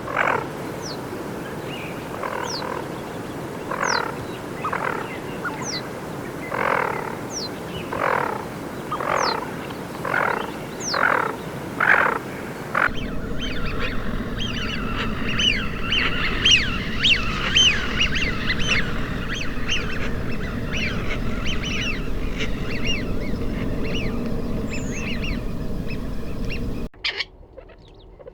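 Duck calls from two spliced field recordings: first a series of rough calls, about one a second, attributed to tufted duck. After a cut about 13 s in come dense, overlapping short whistles from a flock, attributed to Eurasian wigeon. A different bird's call starts right at the end, attributed to grey partridge.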